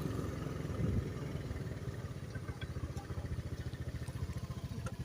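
A small engine running at a steady idle, an even low pulsing.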